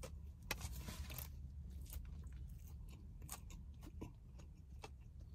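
Close-up chewing of a forkful of taco: faint crunches and wet mouth clicks, many small irregular ticks over a steady low hum.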